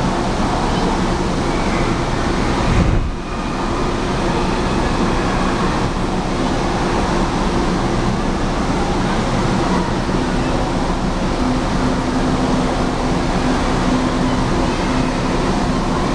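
Steady din of an indoor water park: running and splashing water mixed with the babble of many voices. There is a brief low thump about three seconds in.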